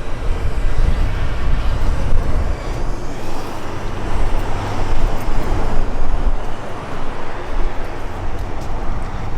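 Gas-fired rooftop HVAC unit running in heating mode with its burners lit: a steady, loud rushing noise over an uneven low rumble.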